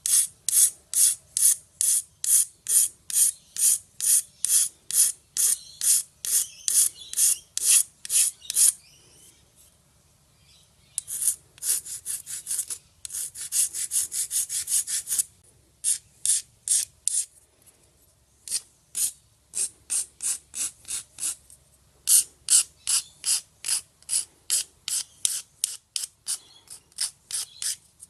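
Hand file rasping back and forth over hardened excess epoxy on a plastic cup-holder part, in even strokes about two to three a second. It stops for a couple of seconds about a third of the way in, then starts again with a few short breaks.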